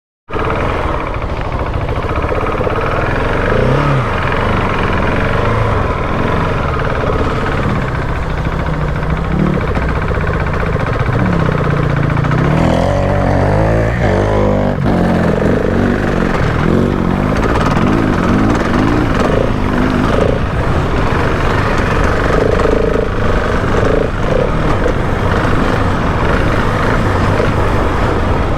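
Husqvarna 701 Enduro's single-cylinder engine being ridden, its pitch rising and falling as the throttle opens and closes through the gears, over a steady rushing noise. The sound cuts in suddenly just after the start.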